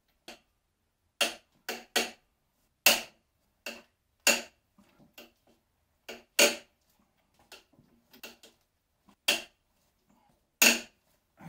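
About a dozen sharp metal knocks and clanks at uneven spacing, from hand tools and parts being worked on the bare Ford 300 engine block during teardown.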